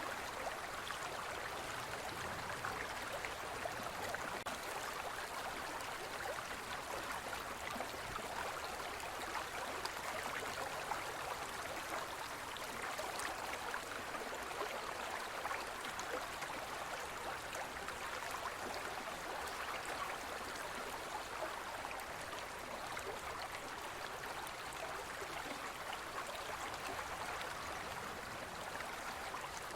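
Gentle forest stream flowing steadily: an even rush of water with fine burbling over stones.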